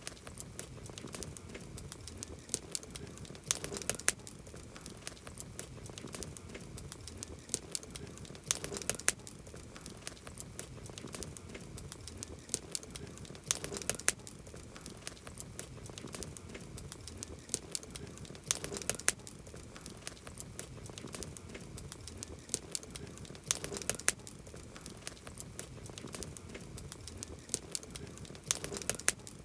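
Campfire crackling: a steady bed of small snaps and ticks from burning wood, with a cluster of sharper, louder pops about every five seconds.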